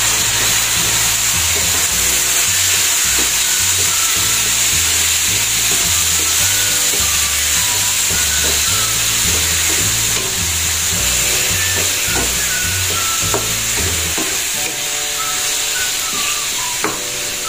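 Cubed raw pork sizzling in hot oil in a nonstick wok with sautéed tomato, onion and garlic, stirred with a wooden spatula as the meat is sautéed. A steady frying hiss.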